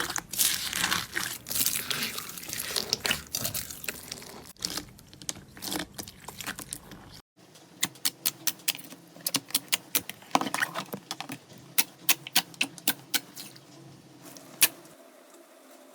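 Slime being squeezed and worked by hand: wet crackling and squelching, then after a sudden cut a run of sharp, separate clicking pops, several a second.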